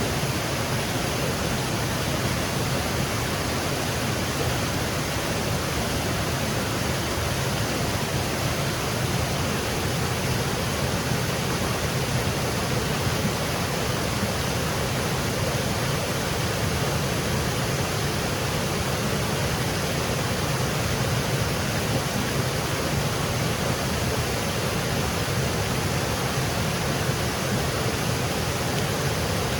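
Small woodland waterfall cascading over rocks, a steady even rush of falling water.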